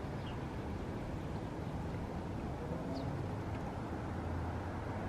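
Steady low background rumble with a few faint, brief bird chirps, one just after the start and one about three seconds in.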